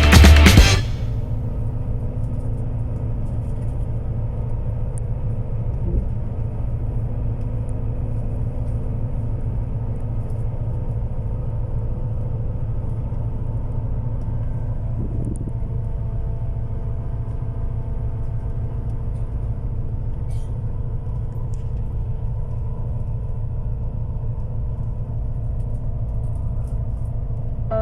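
Steady low vehicle rumble that holds unchanged throughout, with faint steady tones above it.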